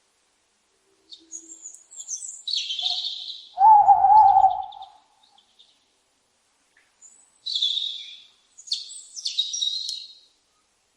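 Birds chirping and singing: two bouts of high-pitched chirps and short song phrases, with a lower wavering call about four seconds in.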